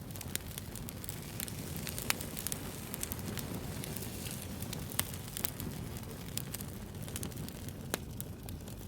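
Wood fire burning with a steady low rumble and frequent sharp crackles and pops, the loudest about two, five and eight seconds in.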